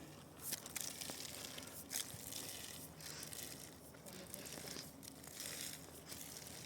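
Irregular rustling and crinkling, a string of soft crackles, like something being handled or crumpled.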